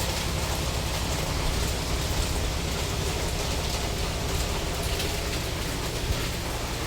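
Heavy typhoon rain pouring steadily in strong wind, with the wind rumbling and buffeting on the microphone.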